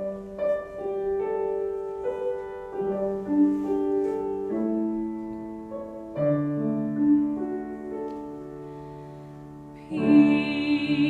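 Piano playing a slow, gentle introduction, one chord after another. A singer's voice comes in near the end.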